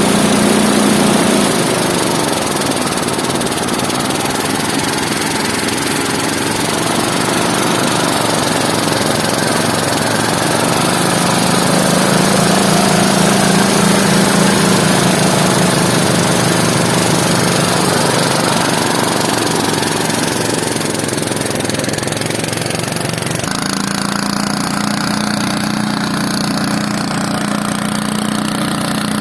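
Engine running steadily, its note drifting up and down, with a sudden change in its sound about three-quarters of the way through.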